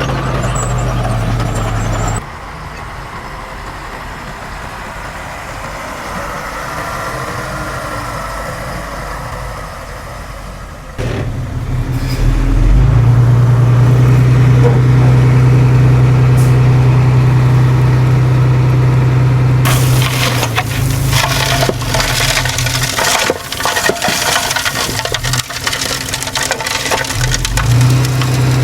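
Heavy earthmoving machine's diesel engine working, running hard for several seconds in the middle. From about two-thirds of the way in, a long stretch of irregular crunching and crackling follows, as soil and debris are broken and shifted.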